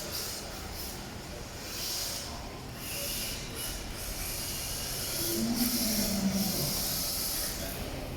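1/10 scale two-wheel-drive RC drift car sliding on hard tyres, a hissing scrub that swells and fades every second or two as it drifts, with a faint whine from its electric motor. A short wavering low tone rises over the hiss about five seconds in.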